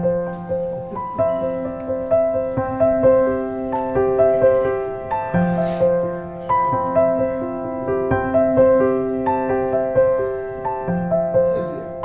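Background piano music: a steady run of held notes.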